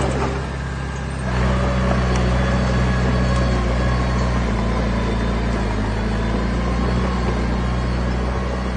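Diesel engine of heavy earthmoving equipment running steadily under load. It eases off briefly near the start and picks back up about a second in.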